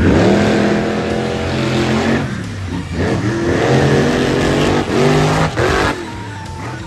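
Monster truck engines revving hard during a race, the pitch sweeping up again and again as the throttle is opened and closed.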